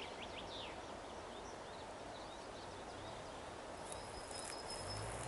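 Small birds chirping in short falling calls over a steady outdoor background hiss. A faint low rumble grows near the end, the distant 2TE116U diesel locomotive approaching.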